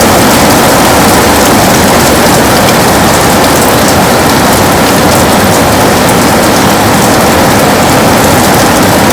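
Heavy rain pattering steadily on a window, a dense even wash of drops.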